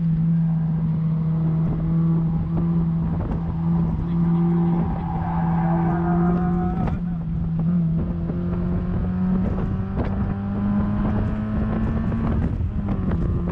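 Mazda MX-5 NB 1.8 four-cylinder engine running under load on track, heard from the open cockpit. The engine note holds steady, then climbs as the car accelerates out of a corner, and dips briefly near the end.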